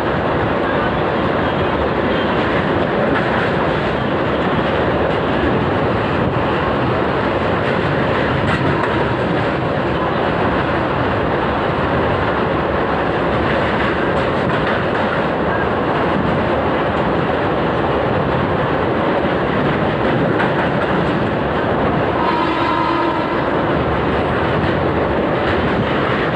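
A train running across a rail bridge, with a steady rumble and the clatter of wheels on the rails. A horn sounds briefly near the end.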